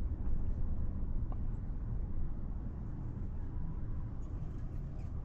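Vehicle engine running, a steady low rumble heard from inside the cab.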